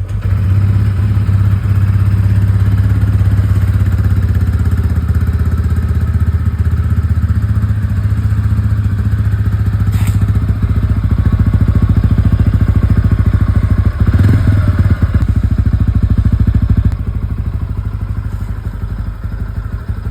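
TVS Ronin single-cylinder motorcycle engine running steadily with a rapid exhaust beat. It briefly changes note about three quarters of the way through, then runs a little quieter near the end.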